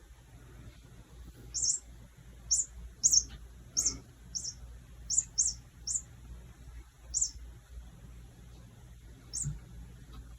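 Bird-sound cat wand toy chirping: about ten short, high-pitched chirps at irregular intervals.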